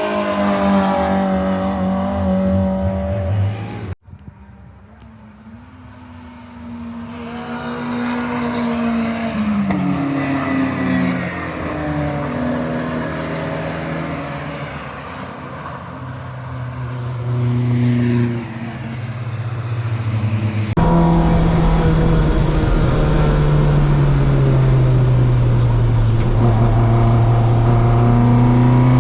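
Racing car engines on a circuit, their note rising and falling with the throttle and gear changes. The sound changes abruptly twice: it drops sharply about four seconds in, and jumps to a loud, steady engine note, sagging and climbing slowly in pitch, past the twenty-second mark.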